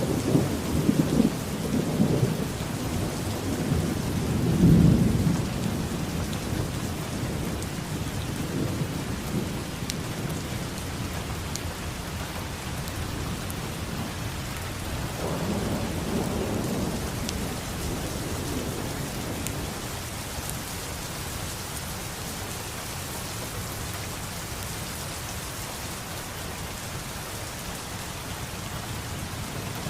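Steady heavy rain falling on a surface, with rolling thunder rumbling low and loudest in the first five seconds, a second rumble about halfway through, then easing off.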